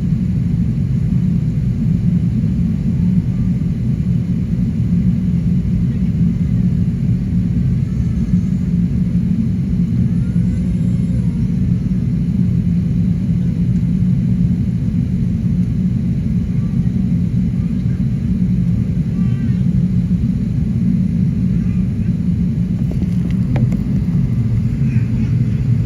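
Airbus A380 engine and airflow noise, a steady low rumble with no rise or fall.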